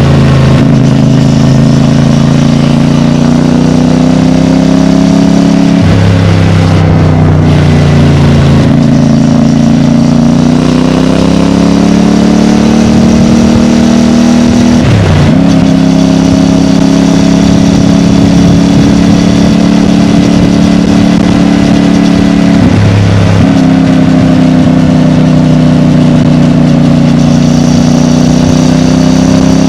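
CFMOTO 450MT's parallel-twin engine running through its stock exhaust. The engine note holds, rises and falls smoothly with the throttle, and dips sharply for a moment twice before picking up again.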